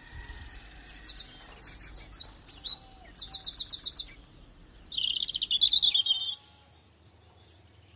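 Small songbirds chirping: quick runs of high repeated notes for about four seconds, then a short warbling trill about five seconds in.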